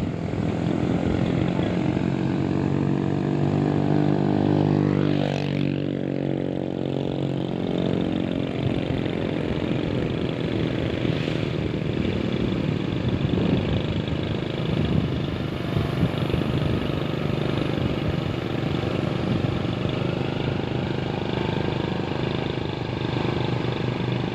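Truck engine running steadily, a stack of low engine tones, with a high tone falling sharply about five seconds in.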